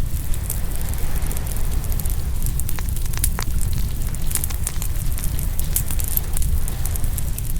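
Open wood fire crackling and popping, with many sharp pops scattered throughout, over a steady low rumble of ocean waves washing in.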